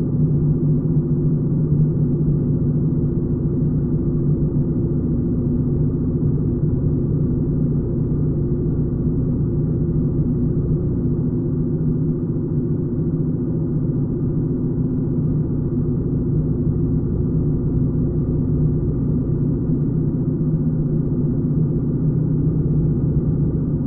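Engine of a 1941 BMW R75 motorcycle, a flat-twin, running under way at a steady cruising speed: a continuous low drone that holds the same pitch throughout.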